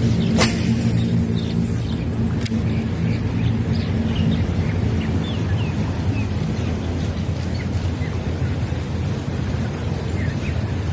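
Steady low rumble with small birds chirping faintly over it. A sharp click comes about half a second in and another about two and a half seconds in.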